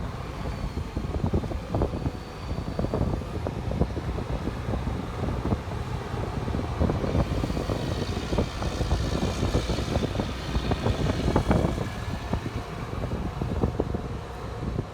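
Liebherr R 934 tracked excavator running, a steady low diesel rumble with irregular metallic clanks and knocks throughout, and a faint high whine midway through.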